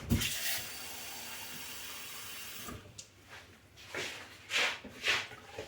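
Water pouring steadily for about two and a half seconds, then stopping, followed by a few short knocks and rustles of kitchen handling.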